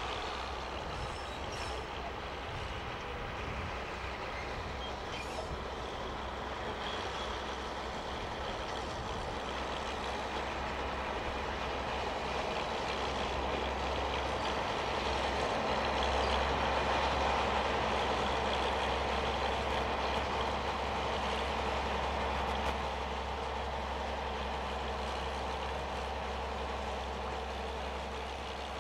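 A 3 ft gauge peat railway locomotive hauling a train of loaded peat wagons, running steadily. The sound swells to its loudest a little past halfway, then eases off as the train goes by.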